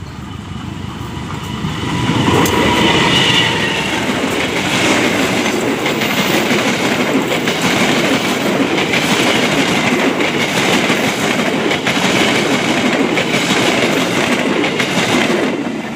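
Diesel-hauled passenger train passing close by at normal line speed: it builds over the first two seconds as the locomotive goes by, then a long steady rumble with repeated clicking of coach wheels over the rail joints, dropping away near the end as the last coach passes.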